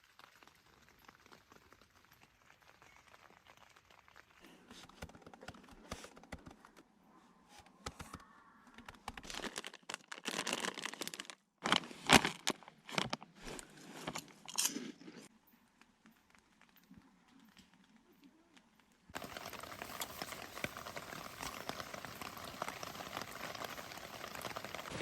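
Crinkling and crunching handling sounds with sharp clicks across several short cuts, then steady rain from about three-quarters of the way in.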